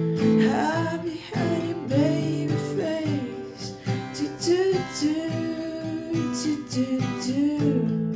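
Acoustic guitar strumming chords under a voice singing a gliding melody line; the voice drops out near the end, leaving the guitar.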